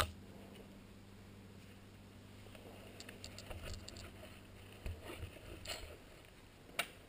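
A sharp click at the very start, then faint scattered rustles and light knocks of handling over a low steady hum.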